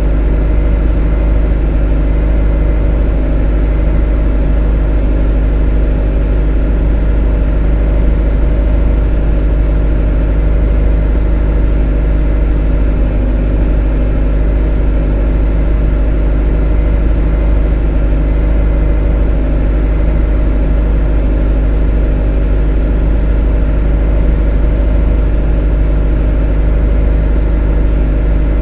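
A motor running at a constant speed: a loud, deep, unchanging drone with a steady hum of several tones over it.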